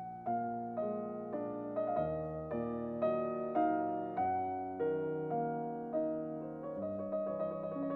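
Background piano music: a slow melody of single notes and chords, struck about twice a second, each fading before the next.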